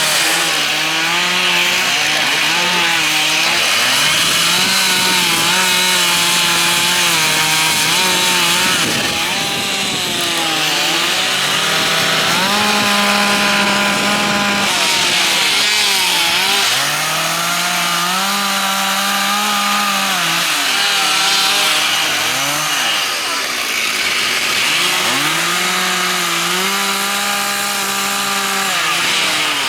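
Several chainsaws cutting into wood together, their engines revving up under load and dropping back to a lower pitch every few seconds as the carvers work the logs.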